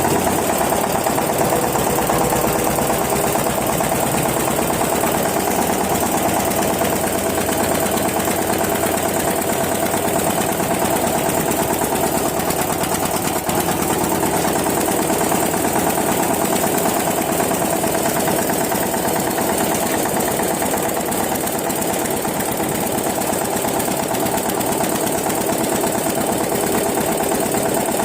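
Old-model Eicher tractor's diesel engine running steadily at an even speed.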